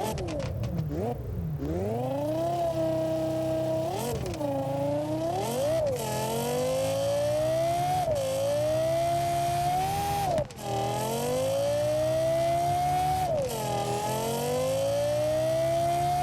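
Lexus LFA's 4.8-litre V10 revving: a few quick throttle blips at first, then pulling up through the gears, its pitch rising steadily and dropping sharply at each upshift, about five times.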